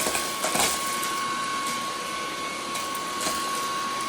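Cordless stick vacuum's motor running with a steady high whine, while coffee beans clatter up the suction tube in scattered sharp clicks, thickest about half a second in.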